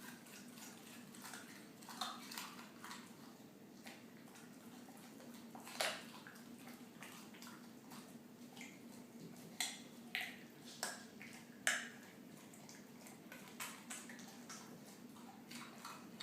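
A boxer dog crunching and chewing a raw carrot, in irregular sharp crunches with pauses between bites. The loudest crunches come about six seconds in and in a cluster around ten to twelve seconds, over a faint steady hum.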